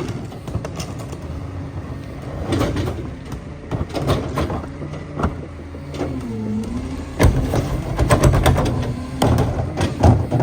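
Heil PowerTrak rear-loader garbage truck's packer compacting heavy trash: the CNG engine runs under hydraulic load while the load cracks and crunches and the packer knocks. The engine note sags and recovers about six seconds in as the packer pushes against the heavy load, and the cracking is loudest and densest shortly after.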